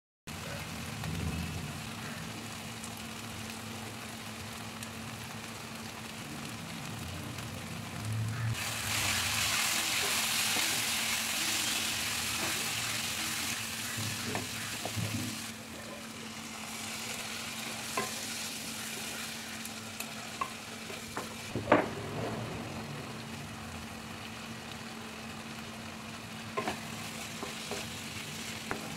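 Onion and tomato masala sizzling in a nonstick kadai as it is stirred and scraped with a wooden spatula; the sizzle grows louder for several seconds in the middle. A few sharp taps of the spatula against the pan, the loudest about three quarters of the way through.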